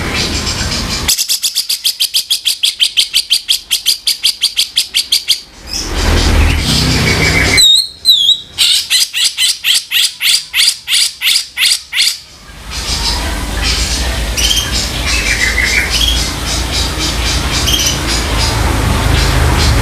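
Cucak jenggot (grey-cheeked bulbul) giving harsh, rasping calls: two long runs of rapid repeated notes, about nine a second, with a short whistled glide between them and scattered chirps near the end. The runs start and stop abruptly, as in a looped training track.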